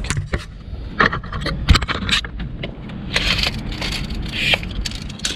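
Metal clicks, knocks and scraping from working the open bonnet of a BMW 7 Series, trying to get it to lock open: sharp clicks in the first half, then several short scraping rasps.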